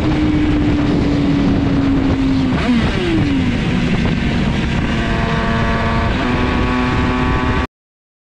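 Motorcycle engine running at a steady cruise, heard from the rider's seat with heavy wind rush over the microphone. Its pitch dips about three seconds in, then holds steady until the sound cuts off suddenly near the end.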